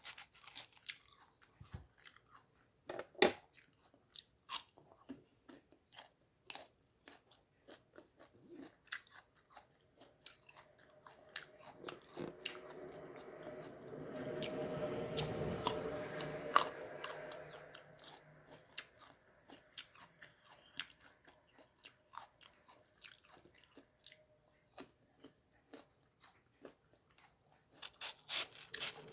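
Crisp, firm mango being bitten and chewed close to the microphone, with many short crunches and clicks. For several seconds in the middle, a louder steady hazy sound swells up and fades away beneath the chewing.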